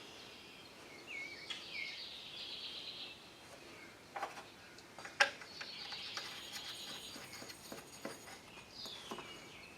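Faint bird song: several chirping, warbling phrases, with a few light clicks and knocks from handling parts in between.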